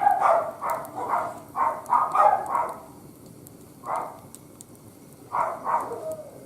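A dog barking: a quick run of short barks, a single bark about four seconds in, and three more near the end. Faint crackle from a wood fire burning in a barbecue grill runs underneath.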